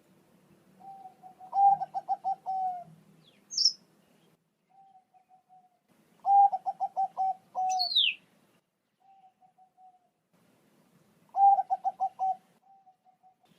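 Zebra dove (Bangkok-type perkutut) cooing, three song phrases a few seconds apart, each a held coo broken into quick stuttering notes and followed by a few softer short notes. A short high chirp, the second one falling, cuts in twice.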